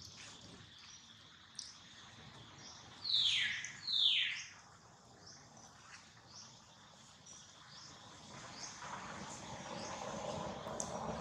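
Birds calling: two loud calls, each sliding steeply down in pitch, about a second apart. They sit over a steady high insect drone and scattered short high chirps. A soft rushing noise swells near the end.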